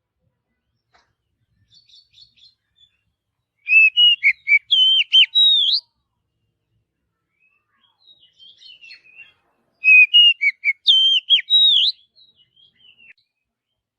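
Oriental magpie-robin (kacer) singing: two loud phrases of varied whistled notes sliding up and down, each about two seconds long, with soft twittering between them.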